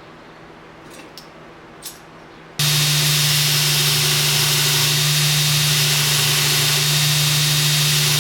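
A few faint clicks, then a shop machine switches on abruptly about two and a half seconds in and runs steadily with a low hum and a hiss.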